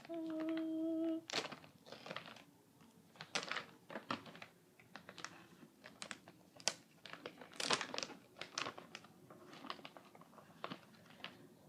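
A snack pouch crinkling and crackling in irregular bursts as it is opened and handled. It is preceded by a steady tone of about a second at the very start.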